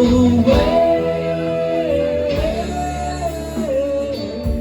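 A rock band playing: a long held lead melody line steps up and down in pitch over guitar and a steady beat.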